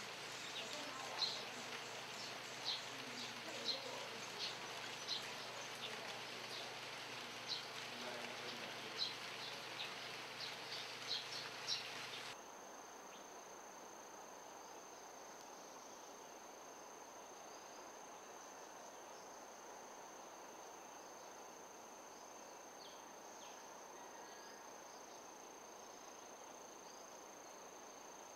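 Short, irregular high chirps of birds over an outdoor background hiss. About twelve seconds in, this cuts abruptly to a quieter background with an insect's steady high-pitched drone, such as a cricket or cicada.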